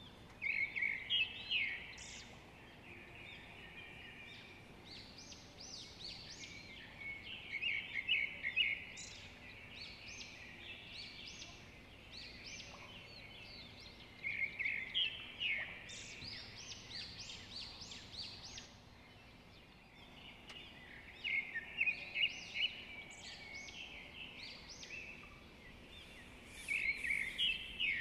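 Songbird singing: five bouts of quick, high chirping notes, each a second or two long and a few seconds apart, over a faint steady outdoor hiss.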